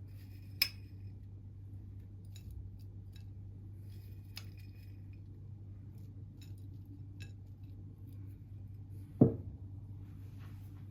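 Hard objects being handled: two light clinks that ring briefly, a few faint ticks, then a louder thump of something set down about nine seconds in.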